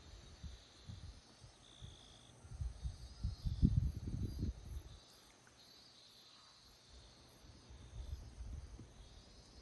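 Crickets and other insects trilling steadily, with a faint high pulsing call repeating about twice a second in the middle. Low rumbling knocks on the phone's microphone, loudest a few seconds in, are the loudest sound.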